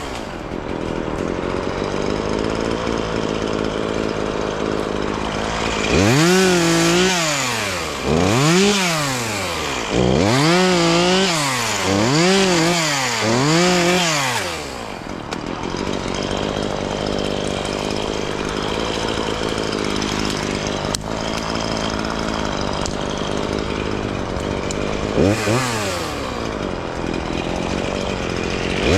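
Chainsaw running. About six seconds in, it revs up and down five or six times over roughly eight seconds. It then settles to a steadier, lower drone, with one brief rev near the end.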